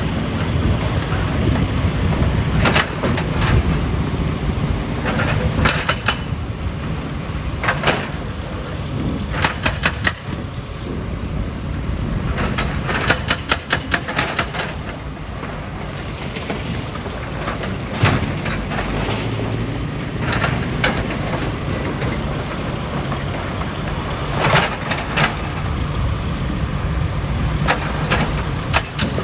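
Stone crusher plant machinery running with a steady low rumble, with irregular sharp clacks and knocks of rock striking rock and steel, some in quick clusters.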